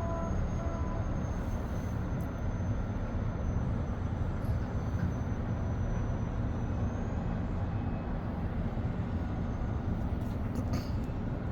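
Steady rumble of city street traffic heard from above, with vehicles moving along a snowy road.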